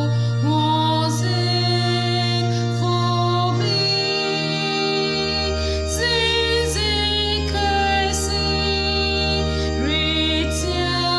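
A woman singing a solo, sliding up into several of her notes, over sustained accompaniment of long held chords and bass notes that change a few times.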